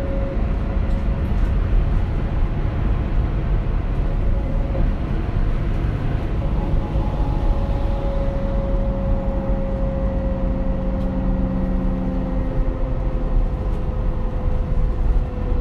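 Scania K400 bus with its hydraulic retarder working: a steady whine over the rumble of the moving bus, slowly falling in pitch in the second half.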